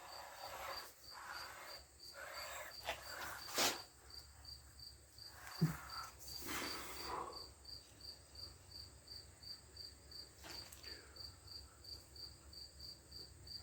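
A cricket chirping steadily in the shop, a short high pulse about three to four times a second. Over it come faint handling scrapes as the measuring tool is moved along the lathe bed, with a sharp click about three and a half seconds in and a low knock near six seconds.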